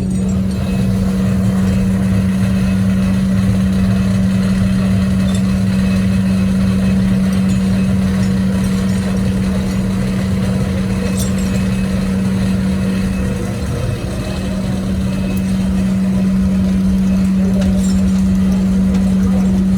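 A machine running steadily with a constant low hum, its level dipping briefly about two-thirds of the way through.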